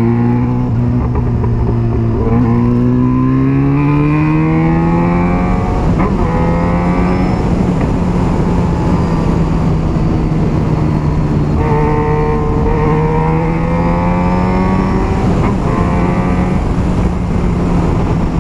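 Yamaha XJ6's inline-four engine through an aftermarket Jeskap 4-into-2-into-1 exhaust, under way and pulling through the gears. The engine note climbs steadily, with gear changes about six seconds in and again about fifteen seconds in.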